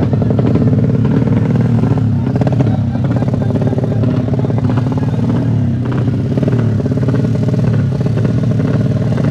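200 cc motocross motorcycle engines running steadily at speed, with a few faint clattering knocks.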